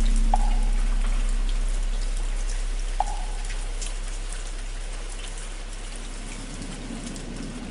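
Steady rain under the low hum of a large temple bell slowly dying away, with two knocks of a wooden fish (muyu), one just after the start and one about three seconds in.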